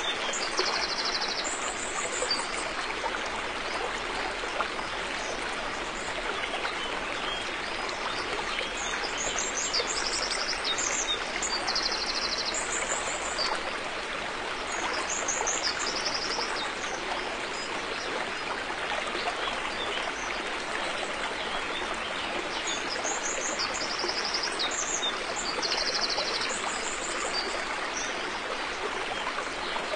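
River water flowing steadily, a constant rushing wash. Over it, short high-pitched chirping trills come in clusters every few seconds.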